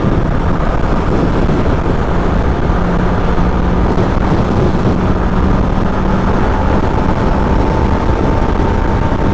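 Kawasaki ZX-10R inline-four engine running at steady cruising revs on the move, under a heavy rush of wind and road noise.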